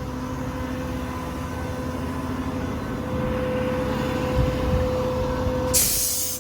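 PTO-driven VMAC hydraulic air compressor running off the truck's 6.7-litre Power Stroke diesel, a steady mechanical hum. Near the end comes a loud burst of hissing air.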